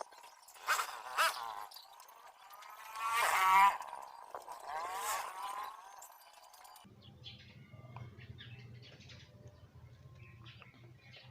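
Birds calling, chirps with gliding pitch, the loudest about three seconds in. About seven seconds in the sound cuts to a quiet steady low hum with small clicks.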